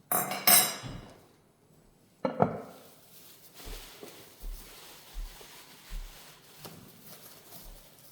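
Kitchen handling sounds: two sharp knocks or clatters right at the start and another about two seconds in, like dishes or utensils being set down, then softer scattered taps and rustling.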